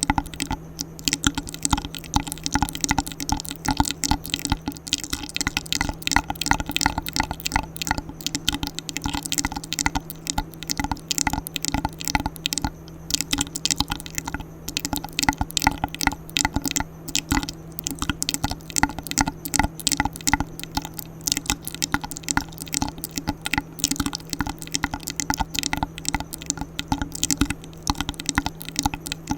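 ASMR mouth sounds: rapid, irregular wet clicks and smacks made close to a sensitive microphone, over a steady low hum.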